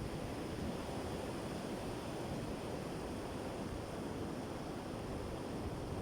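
Sea surf washing steadily on the shore, a continuous even rush with no separate breaks standing out.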